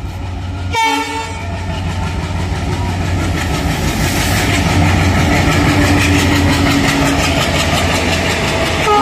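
Indian Railways diesel locomotive hauling a passenger train past, sounding a short horn blast about a second in and another near the end. The engine's low drone runs underneath, and from about halfway the rushing of the coaches and the clickety-clack of wheels over rail joints grow louder as the train draws level.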